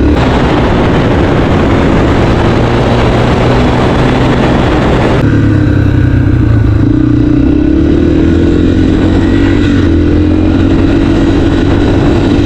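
Dirt bike engine running while being ridden. A loud rushing noise covers it for about the first five seconds and stops abruptly; after that the engine note is clear, with its pitch rising and falling slowly as the throttle changes.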